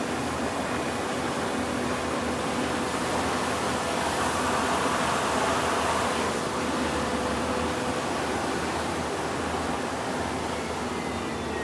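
Sewer flush-and-vacuum truck at work on a manhole: a steady rushing of air and water through the suction hose over the truck's running machinery, swelling slightly about halfway through.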